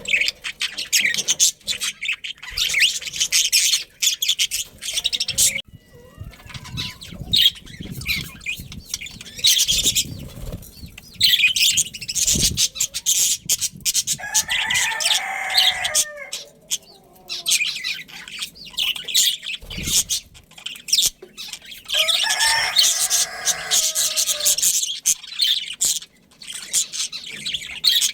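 A colony of budgies chirping and chattering without pause, with wing flutters. Two longer, lower calls stand out, about halfway and about four-fifths of the way in.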